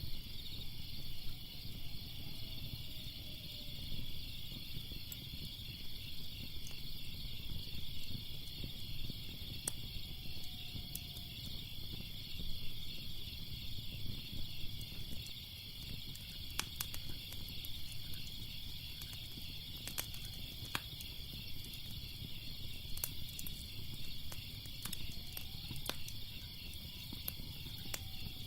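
Crickets chirping steadily in a dense chorus over the low rumble of a fire, with scattered sharp crackles and pops, more of them in the second half.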